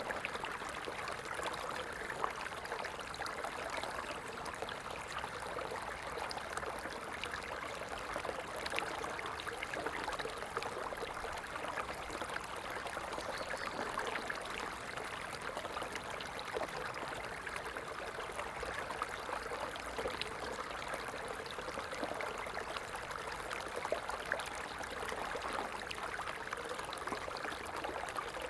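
Stream water running and trickling steadily, a continuous splashing rush with many small droplet-like ticks.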